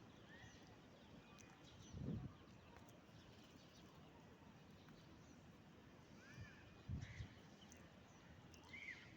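Faint bird chirps: a few short, arched calls scattered through the quiet, with two low thumps about two seconds in and again near seven seconds.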